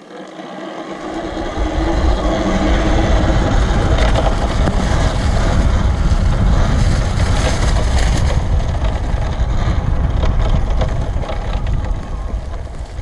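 Wind buffeting the camera microphone while riding an electric dirt bike, a loud, deep rumble that builds over the first two seconds as the bike picks up speed, then holds steady.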